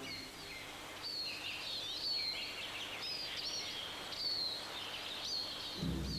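Birds chirping, many short calls sliding up and down in pitch, over a faint steady background hiss. Low music comes in near the end.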